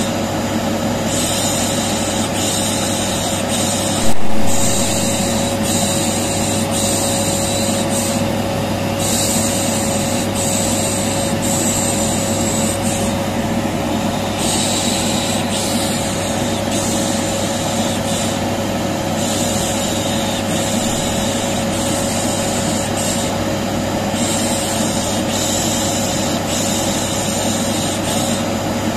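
Vacuum cleaner running steadily with a constant hum, overlaid with repeated 'shh' shushing that starts and stops every second or two. A brief loud click about four seconds in.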